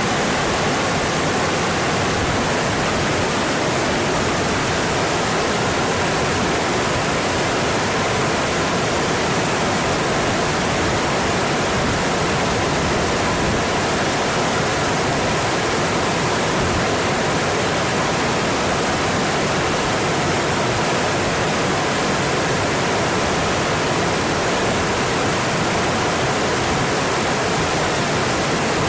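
Mountain stream rushing over its rocky bed, a steady, even roar of water.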